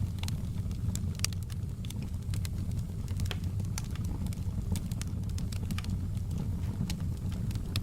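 Wood fire crackling in a fireplace: a steady low rumble of the burning logs with irregular sharp pops and snaps.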